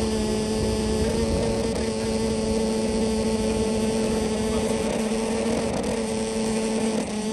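Steady droning hum at an unchanging pitch over a noisy background.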